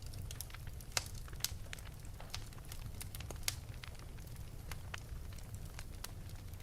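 Wood fire burning in an open fireplace: irregular sharp crackles and pops, a few louder than the rest, over a low steady rumble of the flames.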